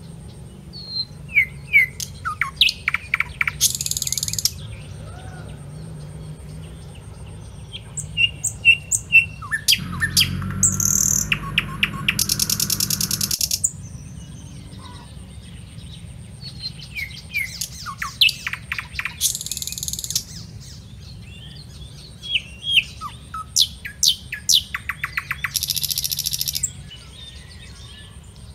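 Birds chirping in groups of short, quick falling notes, broken about every seven seconds by a fast, high buzzing trill, over a faint steady high whine.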